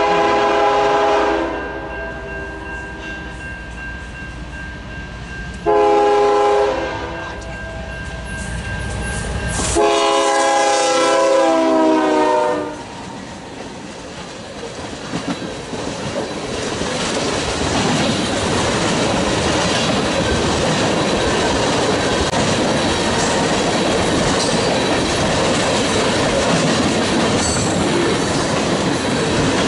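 Freight locomotive's multi-tone air horn: a long blast ending about a second in, a short blast around six seconds, and a long blast near ten seconds whose pitch drops at its end. Then a long string of tank cars rolls steadily by, the wheels clacking over the rail joints.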